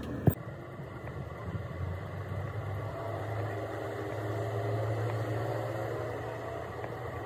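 A motor or engine running with a low steady hum that grows louder through the middle and eases off near the end, after one sharp knock just at the start.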